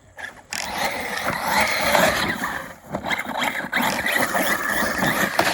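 Arrma Notorious 6S electric RC car driven hard on dirt: the brushless motor's whine and the tyres churning dirt, in two bursts with a short drop nearly three seconds in.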